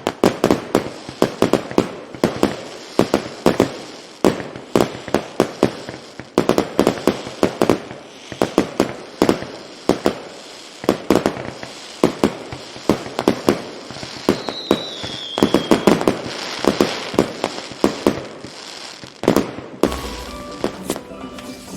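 Fireworks going off in rapid volleys of sharp bangs, several a second, with a brief falling whistle about two-thirds of the way in. Near the end the bangs stop and music begins.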